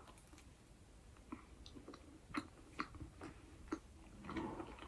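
Faint chewing with scattered wet mouth clicks and smacks, about five sharp ones, and a soft rustle near the end.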